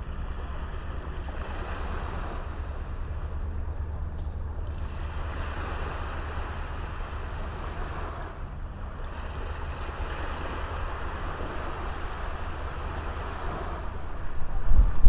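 Small waves washing onto a beach, the surf swelling and fading about three times. Wind rumbles low on the microphone throughout and turns into loud buffeting just before the end.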